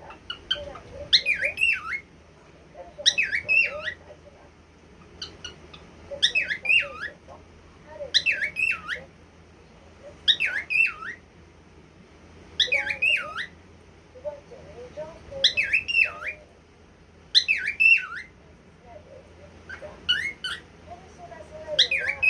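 Cockatiel repeating a short call with swooping whistled notes, about once every two seconds.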